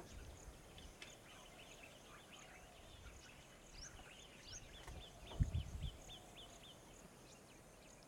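Faint wild birdsong, with scattered small chirps, then a quick run of short repeated notes, about four a second, for a couple of seconds after the middle. A brief low thump comes about five seconds in.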